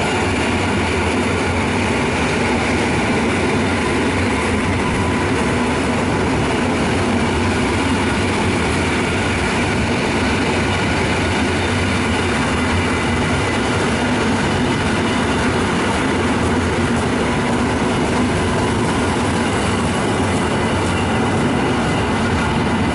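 A train running past on the station track: a steady, loud rumble of wheels on rails, with a few faint steady tones over it.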